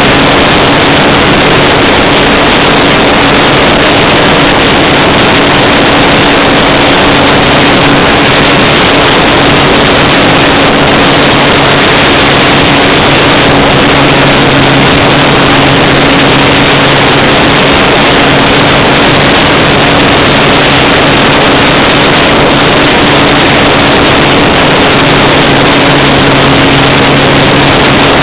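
Radio-controlled Hype Cessna 182 model plane in flight: a loud, steady rush of air with a constant low hum from its motor and propeller, unchanging in pitch or level.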